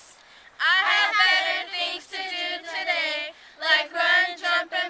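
Young voices singing in three short phrases with brief pauses between them.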